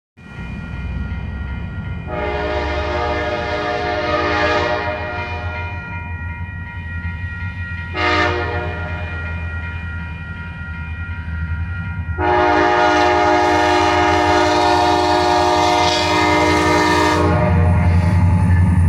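Norfolk Southern diesel locomotive's multi-chime air horn sounding a long blast, a short blast and a final long blast of about five seconds, over the steady low rumble of the locomotive, which grows louder near the end as the train draws closer.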